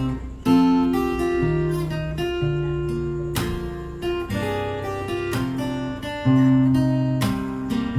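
Music: strummed acoustic guitar chords, changing every second or so.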